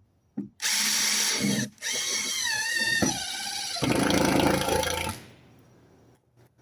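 Power drill driving screws into plywood in a few runs with short breaks, the motor's pitch dropping in the middle run; it stops about five seconds in.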